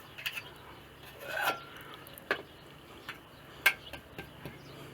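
Scattered clinks and knocks of kitchen utensils against pots and dishes, with a short scrape about a second and a half in and sharper knocks a little after two seconds and near four seconds.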